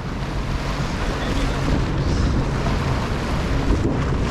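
Jet ski engine running under throttle, with heavy wind noise on the microphone and water rushing. The overall level builds steadily as it speeds up.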